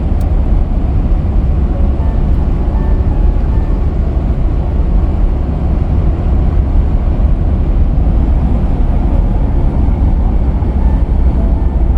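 Steady low rumble of the Mercedes Vito W638 van driving, road and wind noise with no change in pace. Faint music notes come in from about two seconds in.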